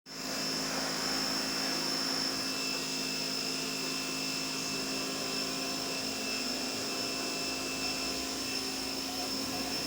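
A motor-driven machine running steadily, with a constant high whine over a noisy hum.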